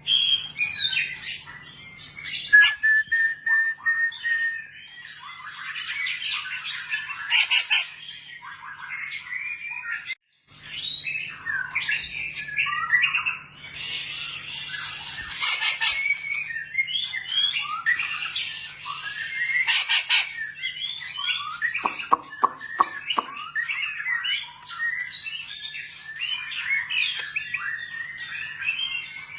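A white-rumped shama singing a long, varied song of whistles, chirps, harsh notes and fast trills, with a brief pause about ten seconds in. A faint steady hum sits underneath.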